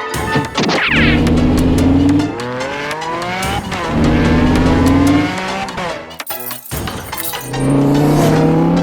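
Cartoon vehicle engine sound effects revving up three times, each a rising whine, over background music, with a short wobbling high chirp about a second in.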